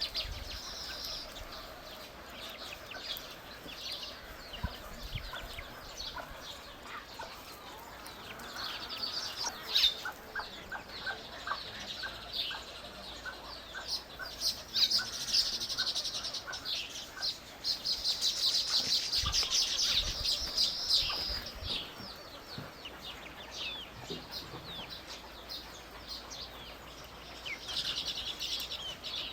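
Birds chirping in bursts of rapid, high-pitched calls, busiest in the middle and again near the end.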